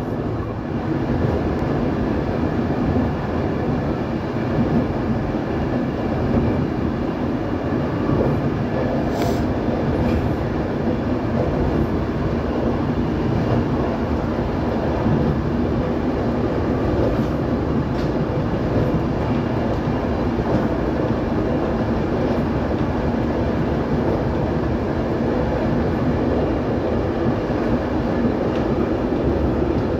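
Train running steadily along the rails, heard from on board: a continuous rumble of wheels on track.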